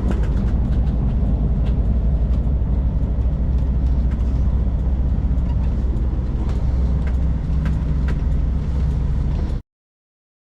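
Kenworth K200 cabover's Cummins diesel engine running steadily under way, a low drone heard from inside the cab, with scattered small clicks and rattles. The sound cuts off abruptly near the end.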